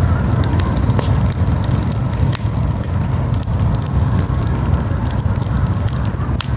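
Wood campfire burning, crackling with scattered sharp pops over a steady low rumble.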